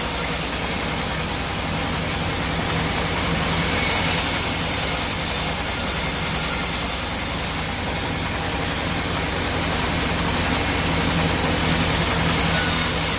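Sawmill machinery running steadily: a constant low hum under a dense, even noise with no breaks.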